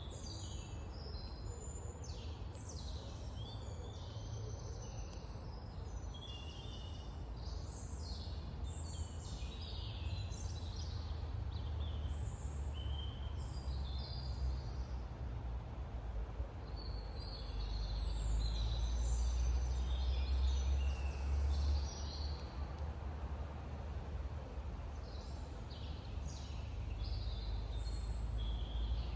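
Several small songbirds chirping and trilling in quick, overlapping short phrases, over a steady low rumble that grows louder for a few seconds past the middle.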